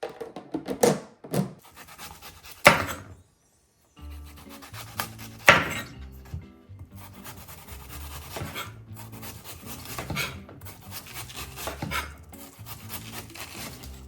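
Items being handled and set down with sharp knocks and rubbing scrapes, the sounds of fridge cleaning and restocking, over soft background music. There is a brief silent gap about three seconds in.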